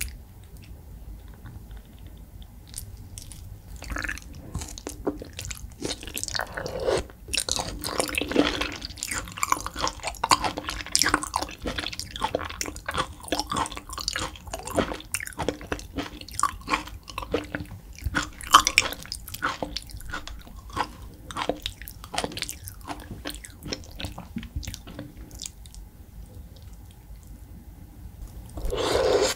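Close-miked chewing of raw beef: a dense run of small mouth clicks and smacks starting a few seconds in, with a louder stretch near the end.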